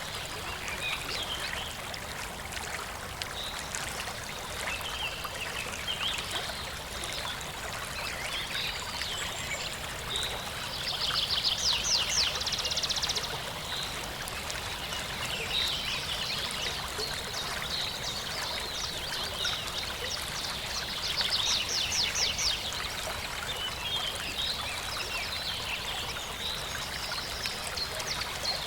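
A stream trickling and running steadily, with songbirds calling over it; twice a bird gives a loud, fast trill of rapidly repeated high notes.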